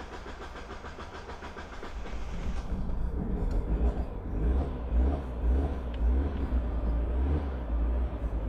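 Mazda MX5 1.8 VVT four-cylinder engine being cranked by its starter for a couple of seconds, then catching and running at an uneven idle on a fresh ME221 basemap, after stalling on its first start.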